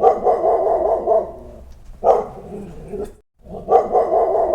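Dog barking in a rapid run of barks, breaking off a little past three seconds and then starting again.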